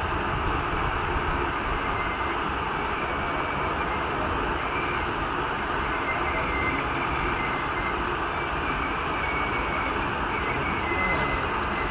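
Passenger train coaches rolling slowly along the track: a steady rumble and rush of wheels on rails, with faint short wheel squeals now and then.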